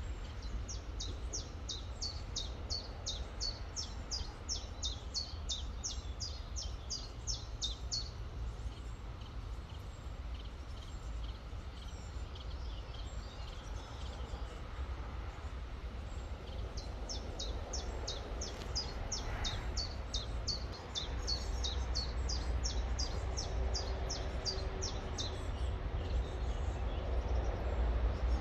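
A songbird singing a fast run of repeated high, falling notes, a few a second, for about eight seconds, then again from about two-thirds in. Under it is a steady low rumble of flowing river water.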